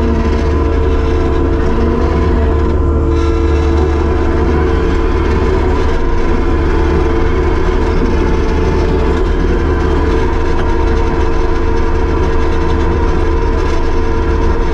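Kubota SVL75-2 tracked skid steer's diesel engine running steadily, a loud constant drone with a steady engine tone.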